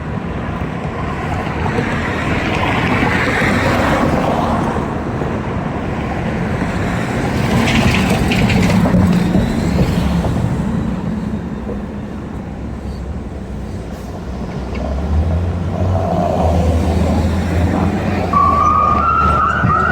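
Steady wind and road noise of a vehicle on the move, with a low engine rumble and passing traffic. Music starts faintly near the end.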